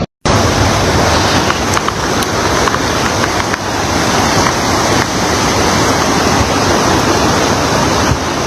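Fast floodwater rushing in a steady, loud wash of noise, with some wind buffeting the microphone.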